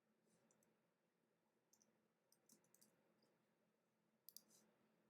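Near silence broken by a few faint, short scratchy clicks of trading cards being slid and flipped over by hand, in small clusters about two seconds and four seconds in.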